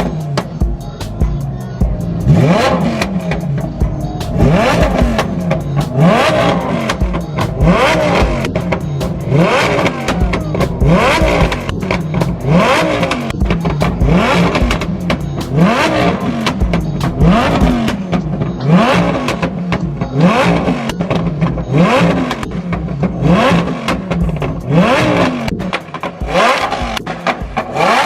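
Car engines revving again and again, the pitch sweeping up and falling back about once a second.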